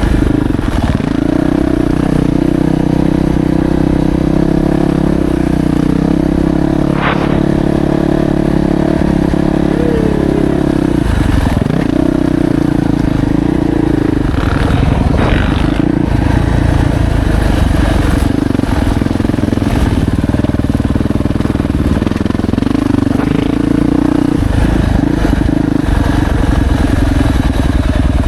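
2025 Yamaha YZ450F's single-cylinder four-stroke engine being ridden hard on a motocross track, heard from the bike. The engine note holds steady, drops away briefly about eleven seconds in as the throttle is shut, then picks back up and keeps changing with the throttle.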